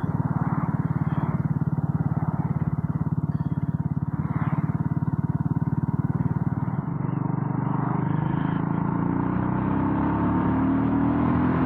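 BSA Gold Star 650's single-cylinder engine running as the motorcycle rides along. About seven seconds in, the engine note changes and then climbs steadily in pitch as the bike accelerates.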